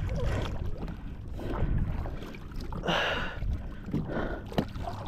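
Water sloshing and splashing against the side of a kayak, with a brief louder splash about three seconds in, over low wind rumble on the microphone.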